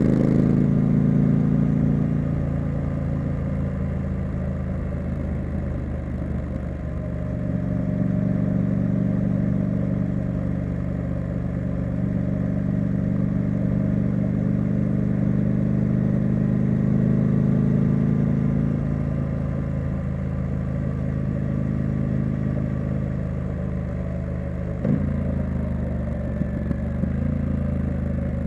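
Triumph Street Scrambler's 900 cc parallel-twin engine and exhaust under way, the engine note dipping and climbing again as the throttle is rolled off and on. A sharp knock comes about 25 seconds in.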